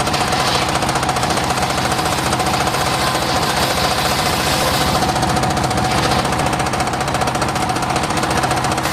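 Engine-driven homemade circular-saw rig running steadily, with a rapid knocking beat and a steady tone from the machine.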